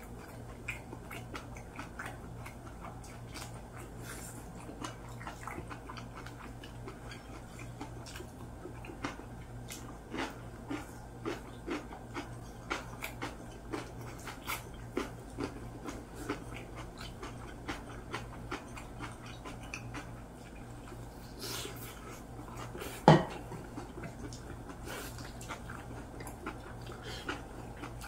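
Close eating sounds of people gnawing and chewing meat off pork back rib bones: soft wet smacks and small clicks, over a steady low hum. A single sharp knock sounds about 23 seconds in.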